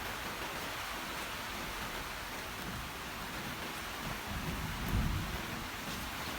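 Steady hiss of heavy rain, with a low rumble of thunder swelling about four seconds in, peaking near five seconds and fading.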